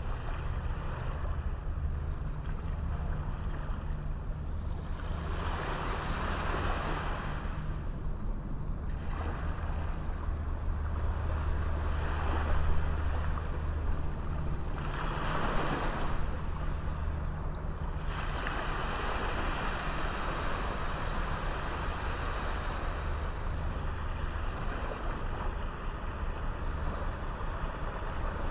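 Small waves breaking and washing onto a beach: the surf hiss swells up and falls back several times, a few seconds apart, over a steady low rumble.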